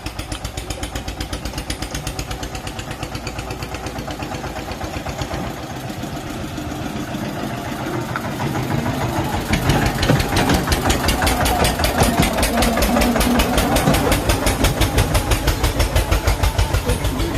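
Tractor diesel engine chugging in an even pulsing beat, growing louder about ten seconds in.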